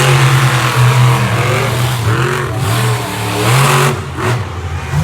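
Monster truck engine running hard and revving, its pitch rising and falling repeatedly, with bursts of noise over it.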